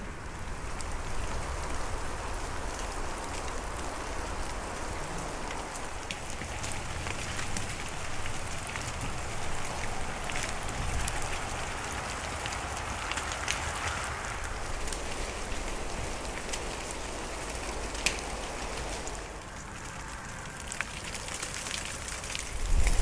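Rain falling: a steady hiss of drops with scattered sharp ticks, over a low rumble.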